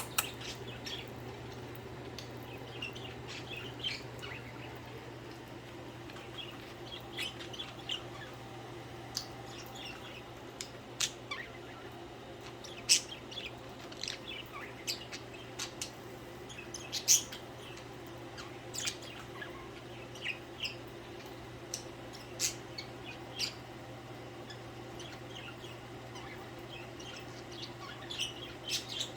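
Pet budgerigars chirping in short, scattered calls, with a few sharper, louder calls now and then, over a steady low hum.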